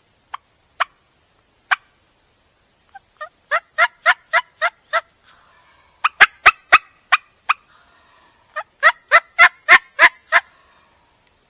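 Turkey yelps: a few single notes, then three runs of six to eight sharp, evenly spaced yelps at about three to four a second.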